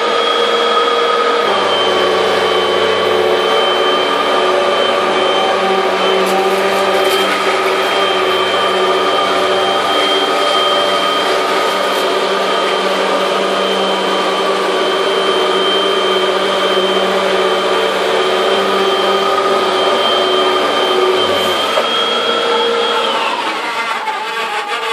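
Hoover Windtunnel Max bagless upright vacuum cleaner running steadily with a high motor whine as it picks up popcorn, with a few faint clicks. Near the end a lower hum drops out, then the motor winds down and stops.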